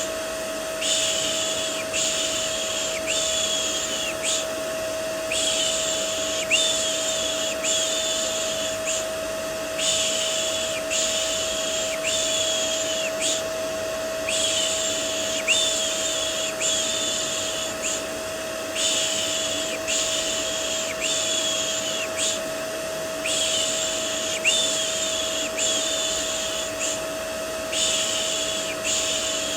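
Vacuum cleaner running with a steady hum, overlaid with a repeated 'shh' shushing for soothing a baby: four shushes of about a second each, then a short pause, over and over.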